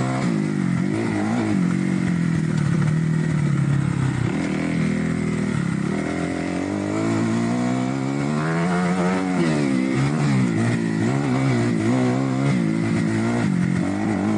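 2008 Kawasaki KX250F's single-cylinder four-stroke engine running under way, its pitch rising and falling again and again as the throttle is opened and closed.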